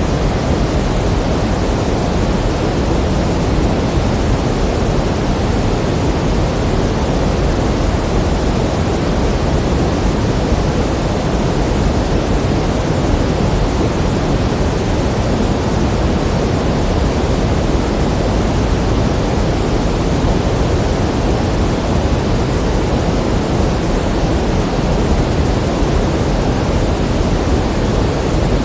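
Pink noise: a steady, even hiss with more weight in the low end, unchanging throughout.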